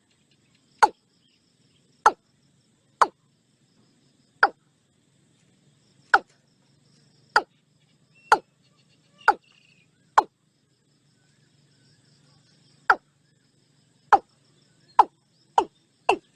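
Watercock calling: a series of short, sharp notes that each drop quickly in pitch, about one a second, coming faster near the end.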